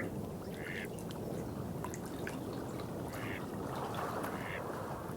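Water trickling and running steadily, with small drip-like ticks. An animal gives a short, nasal-sounding call three times, about a second in, at three seconds and a second later.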